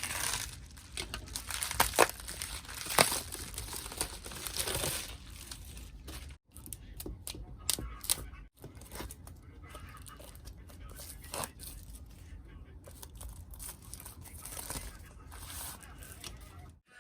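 Plastic packaging being crinkled and torn open, with irregular rustling and sharp ticks of items being handled.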